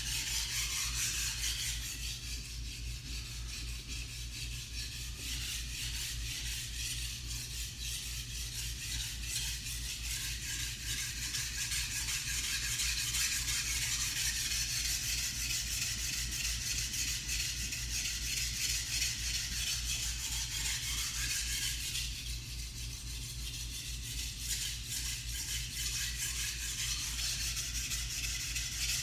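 Steel knife blade (white #2 carbon steel gyuto) being stroked over a coarse 320-grit Suehiro Debado water stone, a continuous gritty scraping made of rapid repeated strokes, as an edge is ground onto a dull blade.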